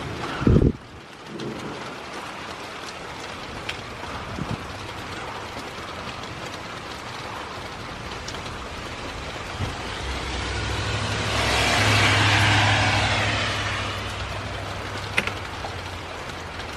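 Steady moderate rain falling, with a short thump just after the start. About ten seconds in, a vehicle passes on the wet road: its tyre hiss and low engine hum swell and fade over about four seconds.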